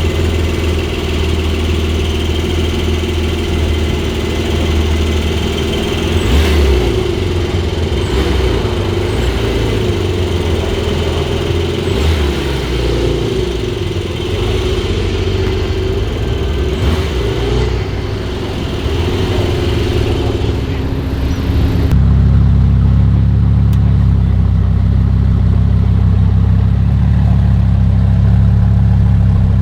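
Exotic sports car engine running after being started, at a steady idle with slight wavering in pitch. About two-thirds of the way through, the sound turns deeper and louder.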